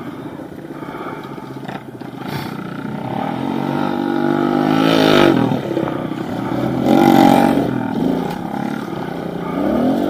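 Pit bike engine being revved up and down as it is ridden. The pitch climbs for a few seconds, drops sharply about five seconds in, then rises again around seven seconds and once more near the end.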